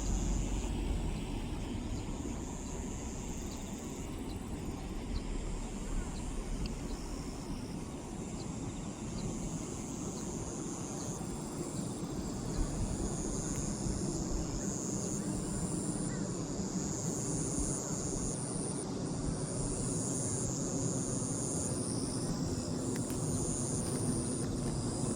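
Distant airplane passing high overhead: a steady low rumble that grows a little louder in the second half.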